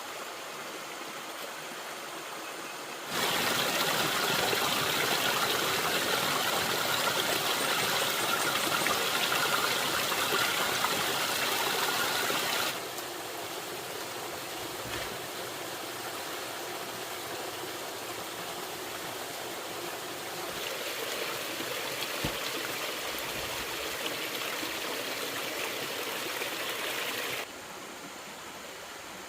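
Running water, a steady rushing that gets louder a few seconds in, drops back after about ten seconds and falls away again near the end. There is one short click in the middle.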